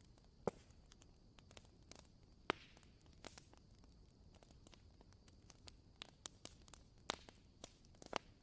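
Wooden-wick candle crackling: faint, irregular small pops and clicks, a few sharper ones, over a faint steady hiss.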